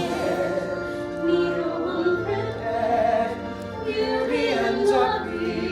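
A woman singing a slow song in a light operatic style over an orchestral backing track.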